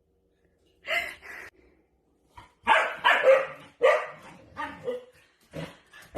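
A dog barking repeatedly in short uneven groups, starting about a second in.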